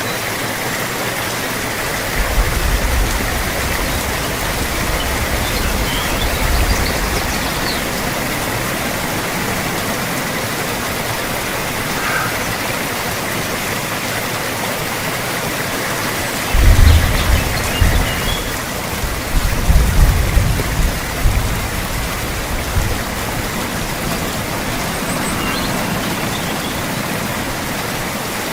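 Steady heavy rain falling. Low rumbles come up twice under it, a short one a couple of seconds in and a louder, longer one a little past the middle.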